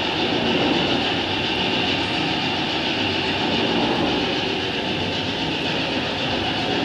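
Steady train-like running noise, a low rumble and hiss with no breaks or separate knocks.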